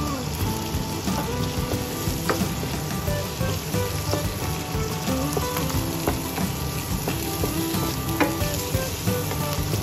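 Sliced mushrooms, chopped garlic and onion sizzling as they fry in oil in a nonstick wok, stirred with a wooden spoon, with a few sharp clicks of the spoon against the pan.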